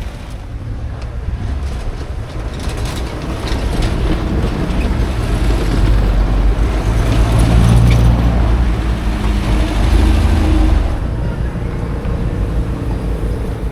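A motor vehicle driving past close by, its engine rumble building to a peak about eight seconds in and then fading away.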